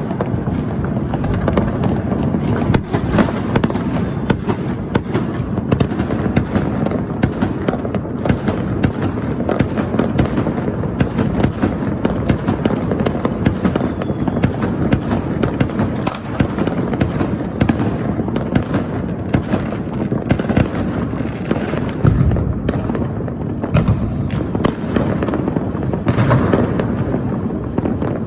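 Fireworks and firecrackers going off in a dense, unbroken barrage of crackles and bangs, with a few heavier booms about two-thirds of the way through and again near the end.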